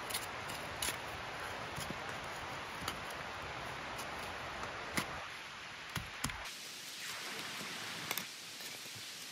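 Steady rushing of a nearby river, with scattered sharp crackles and pops from a small campfire. About six and a half seconds in, the deep part of the rush drops away and the hiss goes on thinner.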